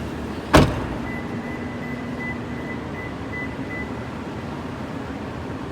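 A car door shuts with a single loud thud about half a second in. Then a soft, high electronic chime beeps repeatedly for about three seconds over a steady low hum.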